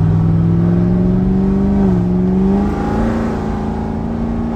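C7 Corvette Z06's supercharged LT4 V8, fitted with a BTR stage 2 camshaft, running hard under acceleration. Its pitch climbs, dips about two seconds in as it shifts up, then climbs again and holds.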